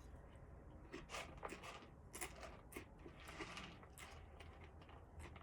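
Faint, irregular crunching and crackling clicks of someone chewing a crunchy, salty, greasy snack.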